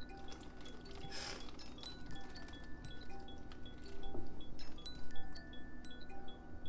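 Background music: a light tune of short, bell-like chiming notes. A brief hiss sounds about a second in.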